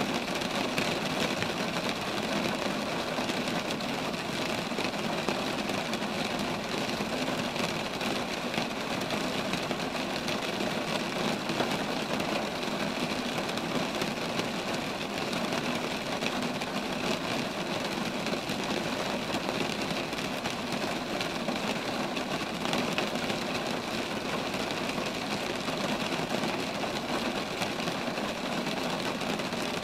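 Steady rain falling on roadside trees: an even hiss scattered with many small drop ticks.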